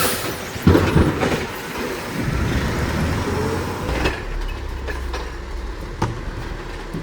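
Garbage truck at work: loud metallic bangs about a second in over heavy engine and mechanical noise, then a steady low drone.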